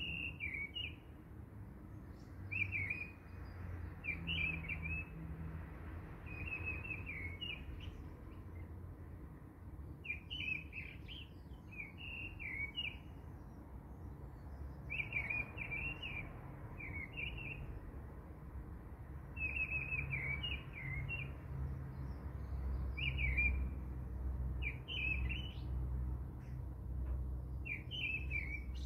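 Small birds chirping in short, repeated twittering bursts, over a low hum that grows louder in the second half.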